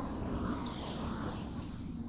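Steady low rumble and hiss of a moving MAX light-rail car, heard from inside the car.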